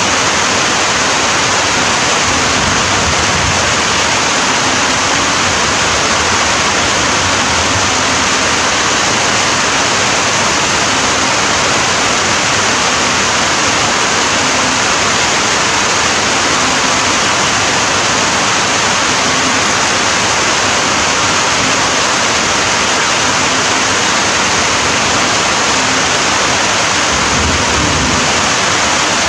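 Steady rain falling: an even, unbroken hiss with no separate drops, thunder or other events standing out.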